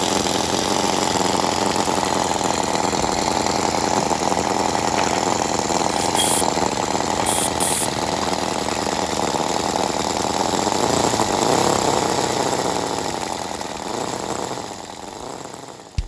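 Small model internal-combustion engine running fast with a rapid, buzzing beat, its pitch rising and falling as the speed changes. It fades out over the last couple of seconds.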